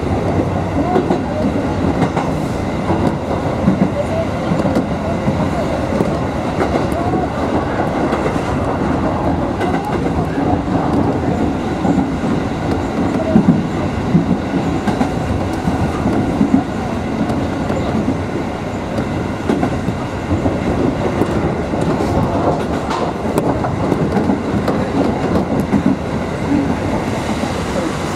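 Kotoden 1100-series electric train running along the line, heard from inside the front of the car: a steady rumble of wheels on the rails.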